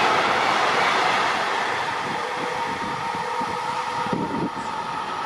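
Train passing through a station, its rushing rail noise slowly fading as it moves away, with a steady high whine over it.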